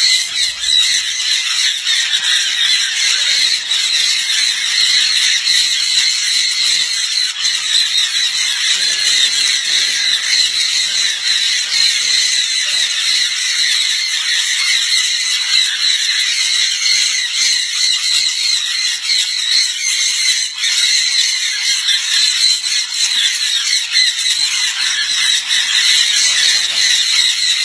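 Many small birds chirping and squeaking over one another in a dense, continuous, high-pitched chatter.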